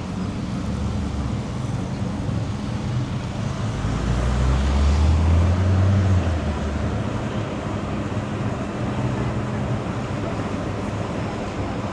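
Street traffic: a steady low engine hum from motor vehicles, with one vehicle's engine growing louder and then fading between about four and six and a half seconds in as it passes close by.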